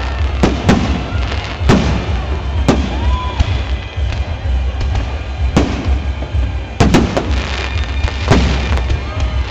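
Fireworks display: aerial shells bursting in a string of sharp bangs at irregular intervals, some close together, over a steady low rumble.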